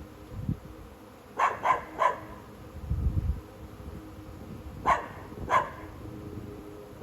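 A dog barking five times: three quick barks about a second and a half in, then two more near the five-second mark. Under the barks is the faint steady buzz of a honeybee swarm.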